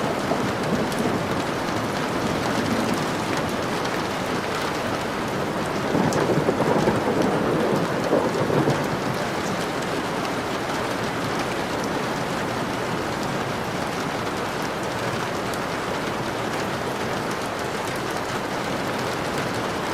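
Steady rain falling, with a roll of thunder rumbling for a few seconds starting about six seconds in.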